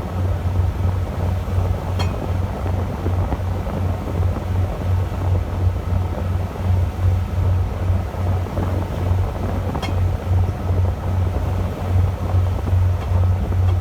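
Fishing boat's engine running, heard on deck as a steady low hum that pulses about three times a second, with wind and sea noise over it.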